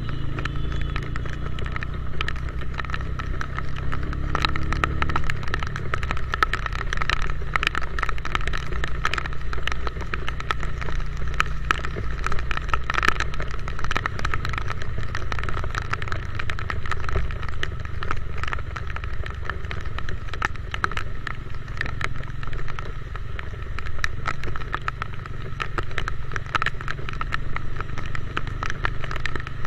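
Motorcycle on the move in the rain: a steady low rumble of engine and wind on the microphone, with many small ticks throughout, and a short rise in engine pitch about four seconds in.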